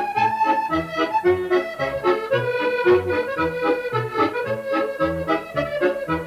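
Accordion playing a medley tune: a melody in the right hand over a regular alternating bass-and-chord accompaniment.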